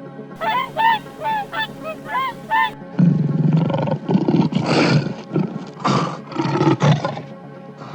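A run of short honking calls, a couple a second, then, after a cut about three seconds in, the loud, deep, rough roaring of a large animal in several long pulls.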